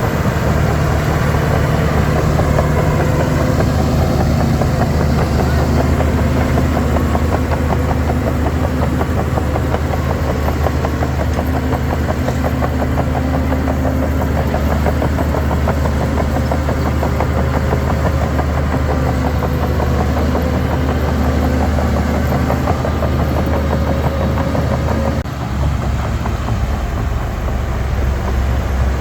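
Heavy diesel engine of earthmoving machinery running steadily with a fast, even firing beat; the engine note changes abruptly about 25 seconds in.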